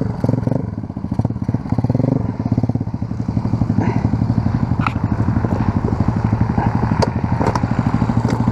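Off-road motorbike or quad engine running steadily at low revs, its firing pulses even, with a few sharp clicks about halfway through and later.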